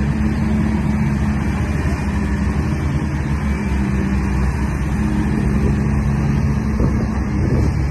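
A heavy truck engine sound running steadily: a low, even, diesel-like drone that holds without revving up or down.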